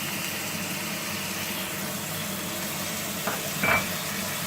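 Beef steaks sizzling steadily in a hot grill pan with oil and a melting cube of butter. Two short clinks a little over three seconds in, the second louder.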